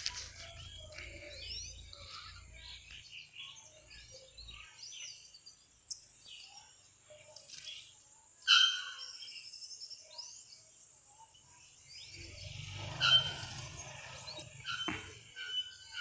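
Small birds chirping and calling, with many short quick whistled notes and glides, and a louder, clearer call about eight and a half seconds in. A low rumble sits underneath at the start and again near the end.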